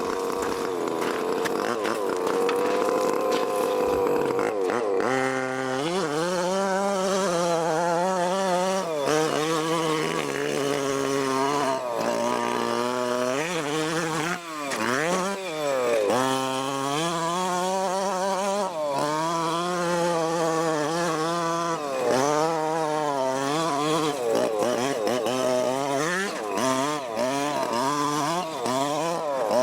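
Small two-stroke petrol engine of a 1/5-scale RC car revving up and down repeatedly as it is driven, its pitch swinging constantly with brief drops in throttle.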